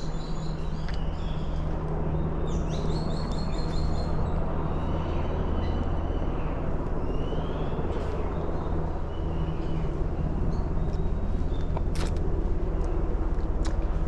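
Steady low droning hum with birds chirping over it, a burst of calls a few seconds in, and a few sharp clicks near the end.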